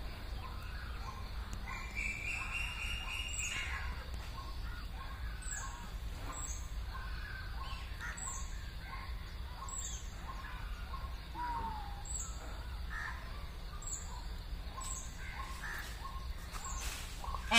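Birds calling outdoors: a longer call about two seconds in, then short, high, falling chirps repeated roughly once a second over a steady low background hum.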